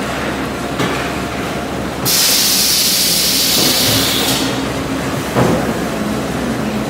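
Brine-injection machine running with a steady mechanical hum. A loud hiss starts about two seconds in and lasts about two seconds, and there is a short knock near the end.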